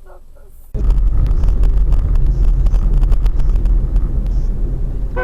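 Loud, steady rumble of a car driving, with a heavy low drone and many small knocks and rattles, cutting in abruptly under a second in.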